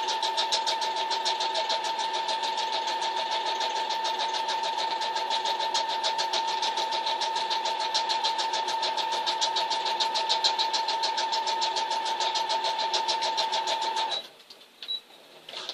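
Electric sewing machine stitching through dog food bag material: a steady motor whine with a rapid, even clatter of needle strokes, stopping suddenly about fourteen seconds in.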